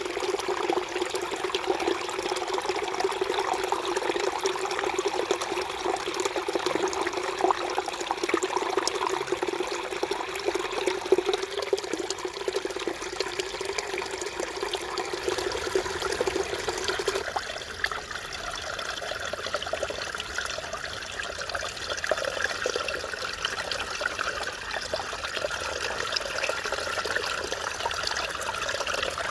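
Mountain stream water babbling and trickling over rocks. About two-thirds of the way through the sound changes, turning lighter and higher.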